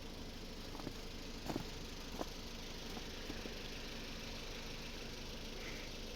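An engine running steadily at idle, with a few light knocks in the first couple of seconds.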